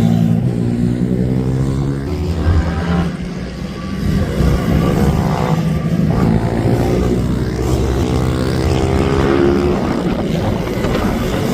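Racing minibike engines revving hard on track, several bikes passing with the pitch rising and falling as they accelerate and go by.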